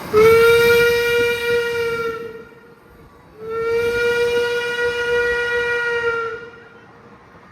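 Steam locomotive whistle sounding two long blasts, the second longer, each a single steady note with many overtones.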